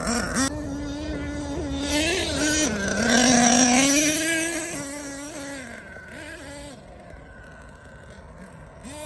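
HPI Savage X 4.6 nitro monster truck's small two-stroke glow engine revving up and down in a high buzz. It is loudest about three seconds in, then fades away.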